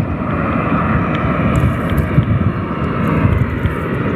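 Airbus A330 airliner on approach, its jet engines throttled back: a steady, loud rumble with a hissing whine above it.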